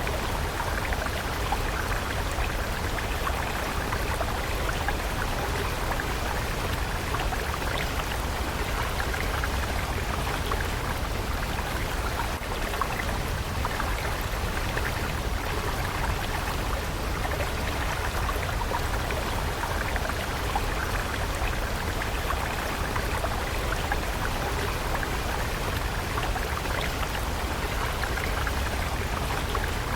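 Stream water flowing steadily, with an even, unbroken rush of small splashes.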